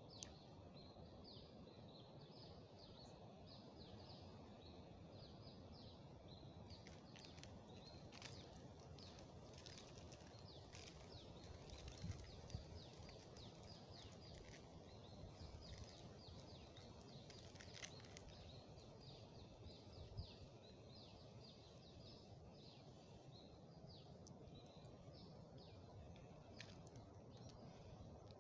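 Faint small birds chirping in a rapid, steady run of short falling notes over a low, even rumble, with a few scattered clicks.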